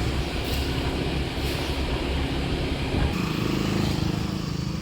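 Motorbike engine running steadily while riding, a low hum under road noise.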